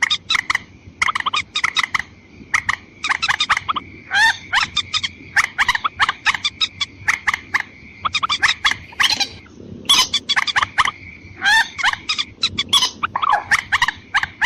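Watercock lure calls, female and male: rapid runs of short, sharp clucking notes, several a second, in bursts with brief pauses, over a steady thin high tone.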